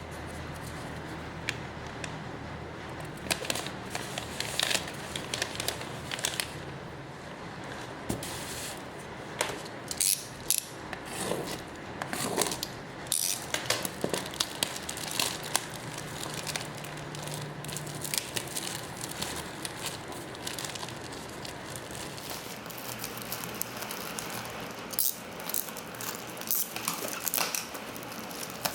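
Plastic packaging crinkling and rustling in irregular bursts as orders are packed, over a steady background hiss.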